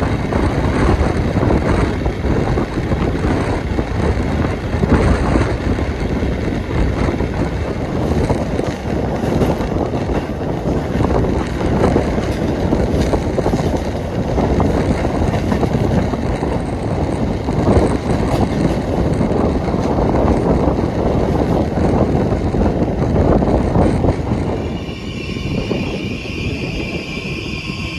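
Loud, steady rush of wind and wheel-on-rail noise from a moving passenger train, heard at an open window of a couchette car. Near the end the rush drops and a high, steady squeal comes in, which is the brakes as the train slows into the station.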